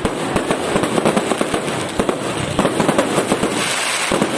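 Fireworks display: a dense, continuous run of rapid bangs and crackling pops.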